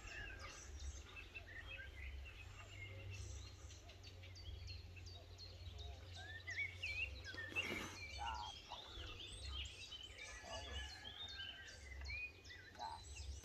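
Songbirds singing in the background, many short chirps and trills overlapping throughout, over a steady low rumble on the microphone.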